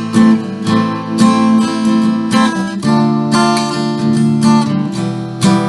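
Acoustic guitar strumming chords in a steady rhythm, an instrumental break in a song with no voice.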